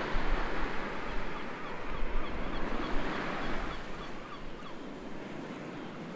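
Sea surf washing on a shore, a steady rush of breaking waves that eases off about four seconds in. Faint, short high chirps repeat over it for the first few seconds.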